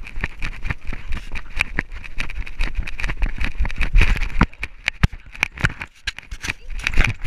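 Rapid, irregular knocking and rubbing of a GoPro in its harness on a moving dog, over a low rumble of wind and jostling, with a short lull about two-thirds of the way through.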